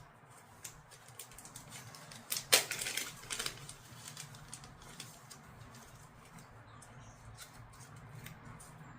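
Scattered light clicks and rustling from handling small parts, with a louder burst of clattering about two and a half seconds in.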